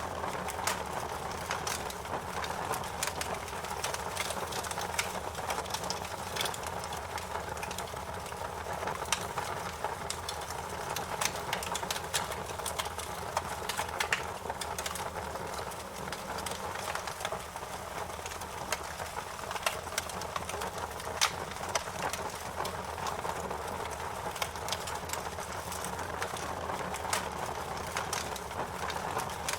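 Wood fire crackling: a steady hiss and low rumble of burning with frequent small snaps and pops, and a few louder pops scattered through.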